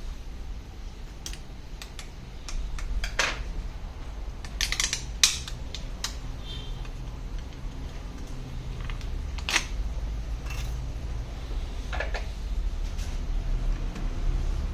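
Scattered light clicks and taps of small hard objects being handled, irregular and a few at a time, over a steady low hum.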